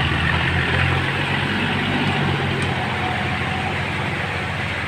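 Kubota tractor's diesel engine running steadily under load while tilling a rice paddy, easing slightly in loudness toward the end.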